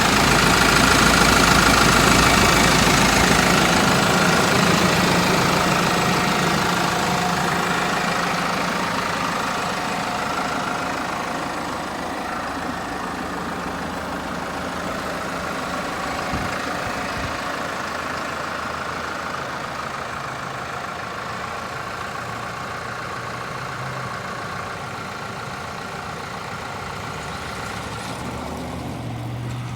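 Case IH 105C tractor's diesel engine running steadily, growing gradually quieter over the first twenty seconds.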